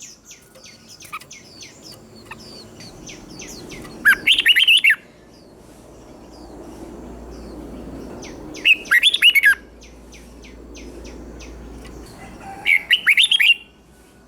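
Red-whiskered bulbul singing three short, loud, rapid song phrases, each about a second long and about four seconds apart. Fainter high chirps of other birds run between them.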